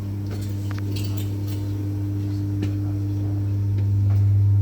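Class 319 electric multiple unit's onboard electrical equipment humming steadily while the train stands, a low hum with a few fainter overtones that grows slightly louder near the end.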